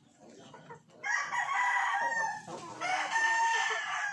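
Rooster crowing: two long crows, the first about a second in and the second following shortly after.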